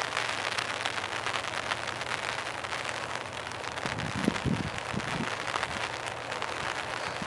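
Heavy rain falling, a steady hiss with many small drop ticks close by. A few low thumps come about four to five seconds in.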